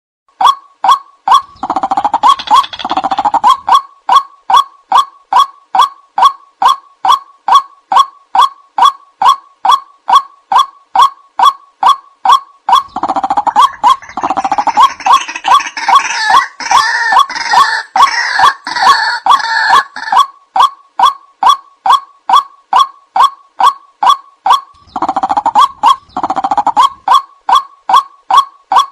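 White-breasted waterhen (ruak-ruak) calling: a loud, rhythmic string of sharp repeated notes at about two a second. At three points, briefly near the start, for several seconds in the middle and again near the end, a rougher, busier chorus of calls joins the steady repeat.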